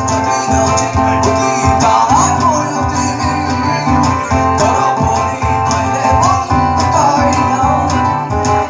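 Live rock band playing: guitars over a steady drum beat, with a lead melody bending in pitch.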